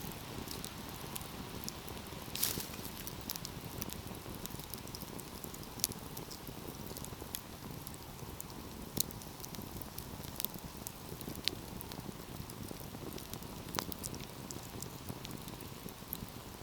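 Wood fire burning with a steady low rush and irregular crackling, scattered sharp pops throughout, a few of them louder.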